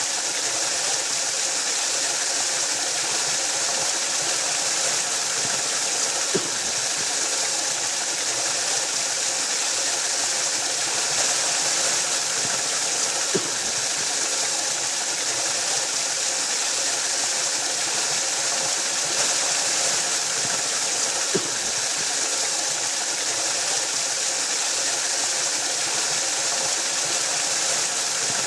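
Waterfall rushing in a steady, even roar of falling water. A brief soft knock comes about every seven or eight seconds.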